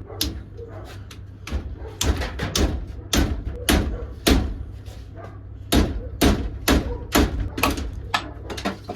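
A quick, irregular run of sharp knocks, well over a dozen, sounding roughly twice a second at the busiest, over a steady low hum.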